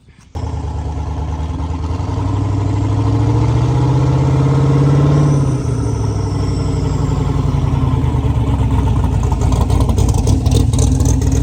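Twin-turbocharged 5.3-litre LS V8 of a 1969 Chevelle driving and accelerating. The engine note climbs for a few seconds, drops about halfway through, then pulls steadily.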